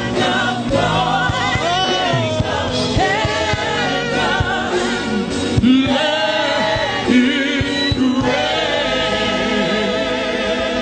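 Gospel choir singing with instrumental backing, long wavering held notes.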